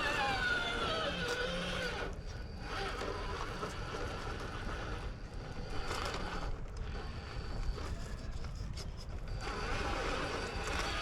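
RC rock crawler's electric motor and geared drivetrain whining, the pitch gliding down and up as the truck creeps and stops on rock.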